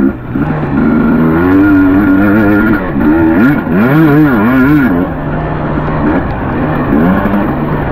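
Dirt bike engine under load on a trail, revving up and down several times in quick swells as the throttle is opened and closed.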